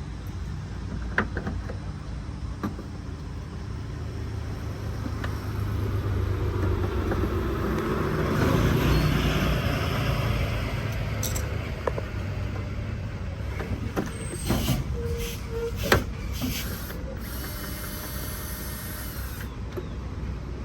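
A motor vehicle's engine rumbles, swelling to its loudest about nine seconds in and then fading, as a vehicle passing by would. Scattered sharp clicks and knocks sound over it, the strongest about sixteen seconds in.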